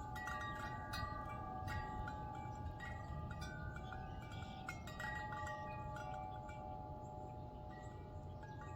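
Wind chimes ringing in a breeze: irregular strikes of several tubes, each note ringing on, over a low wind rumble.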